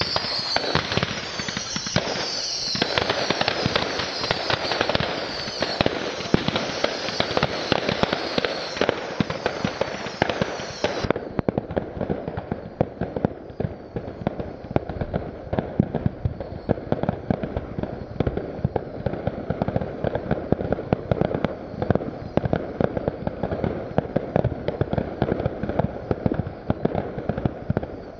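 Firework display: a dense, continuous barrage of rapid bangs and crackling. For the first ten seconds or so, high falling whistles repeat over it, then cut off suddenly.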